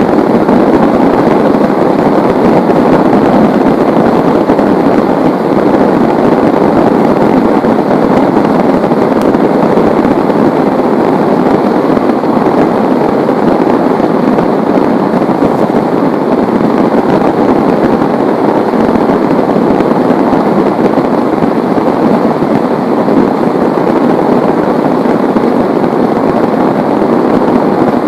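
Heavy rain pouring steadily, a dense, even hiss of falling water with no let-up.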